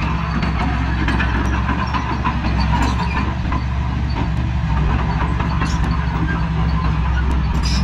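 Heavy diesel engine of an earthmoving machine running steadily, with scattered light clicks and clanks over it.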